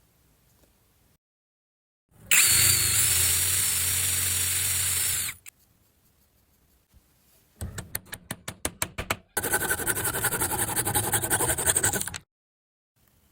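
Biscuit joiner running in edited clips: about two seconds in, its motor spins up with a steady whine for about three seconds and stops. Later a quick run of ticks leads into about three seconds of dense, rattling power-tool noise.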